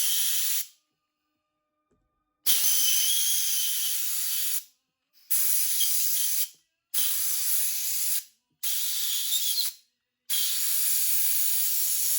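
Compressed-air blowgun hissing in repeated blasts of one to two seconds with short silent gaps, about six in all, as air is shot under a rubber motorcycle handlebar grip to lift it loose on a thin cushion of air.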